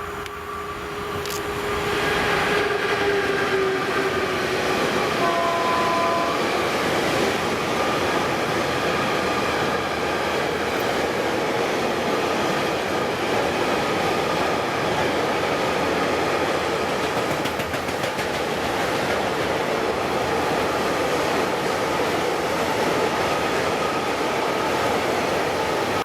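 A train passing close by at speed on the main line: a loud, steady rush of wheels on rail that builds over the first two seconds, with a tone falling slightly in pitch at the start. The sound cuts off suddenly at the end.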